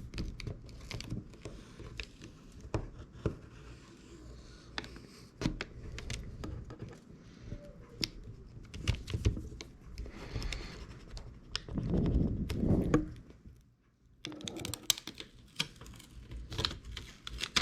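Hands working on an opened phone while fitting a new adhesive screen seal: scattered light clicks and taps, with some crinkling and peeling of the seal's backing. There is a louder spell of low rubbing about twelve seconds in.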